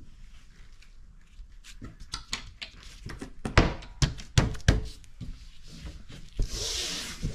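A run of sharp knocks and thunks from work on the boat deck, then a short hiss near the end.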